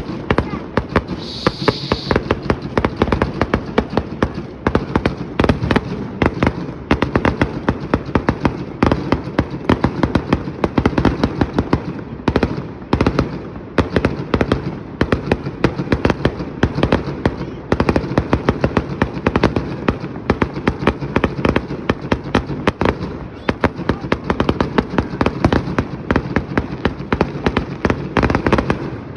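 Fireworks going off in a dense, continuous barrage of bangs and crackles, many per second, with a brief higher fizz about a second in.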